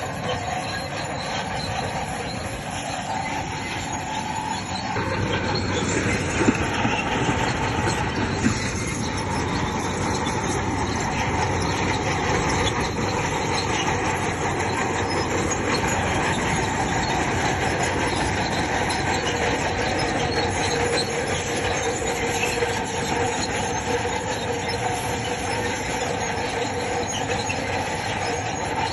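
Crawler bulldozer working: the steel tracks squeal and clank over the diesel engine's steady running. It grows louder about five seconds in, with a couple of sharp knocks shortly after.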